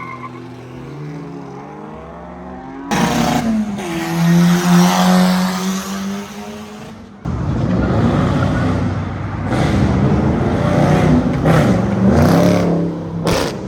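Car engines revving and accelerating hard. A quieter rising rev comes first, then a loud sustained engine note starts suddenly about three seconds in. After an abrupt break a little past halfway, more engine revs rise and fall.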